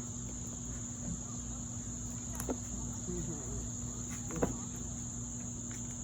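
Steady high-pitched insect chorus, under a low steady hum, with a few light clicks or taps, the sharpest about two-thirds of the way through.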